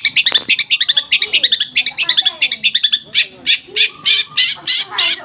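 Lovebird singing a long, unbroken run of rapid sharp chirps, with sparrow-like notes strung together into one continuous burst of song.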